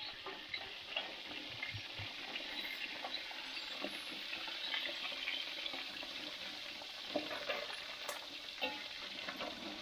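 Pieces of catfish sizzling as they fry in hot oil in an aluminium wok, stirred and turned with a metal spatula, with a few clicks of the spatula against the pan toward the end.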